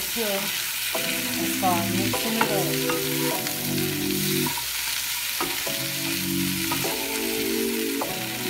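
Diced potatoes and onions sizzling as they fry in a skillet on a gas burner, stirred and turned with a wooden spatula. Low held tones underneath shift every second or so.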